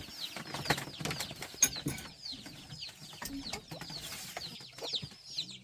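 Chickens clucking, with many short falling chirps and a few sharp clicks or knocks.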